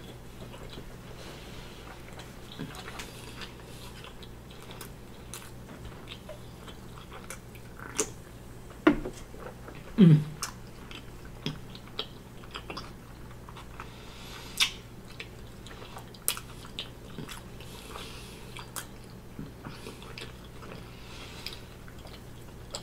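A person chewing a big mouthful of bacon cheeseburger with mouth closed: scattered moist clicks and smacks. Two short falling hums come about nine and ten seconds in.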